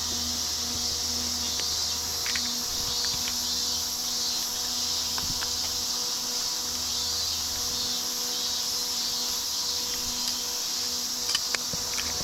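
Steady high-pitched chorus of insects chirring without a break, with a steady low hum underneath and a few sharp clicks near the end.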